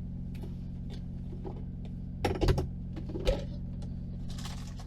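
Steady low hum of a running generator, with a few clinks and knocks of dishes as a small coffee maker is set up, the loudest a little past halfway.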